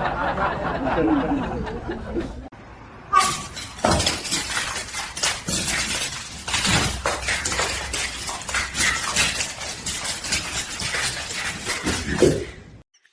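A long run of many sharp knocks and clinks, some of them loud, beginning about three seconds in and cutting off suddenly near the end.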